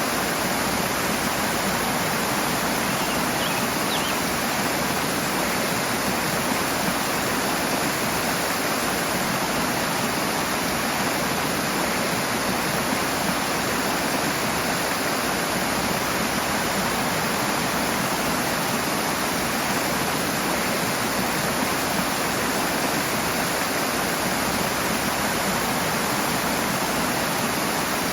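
Rushing water from a fast-flowing stream or small waterfall, a steady, dense hiss with no let-up.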